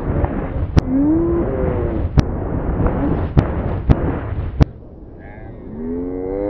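Fireworks recording played backwards at quarter speed: a deep continuous rumble broken by five sharp cracks. The last crack, about four and a half seconds in, cuts off abruptly into a quieter stretch. Low gliding pitched tones sound over the rumble.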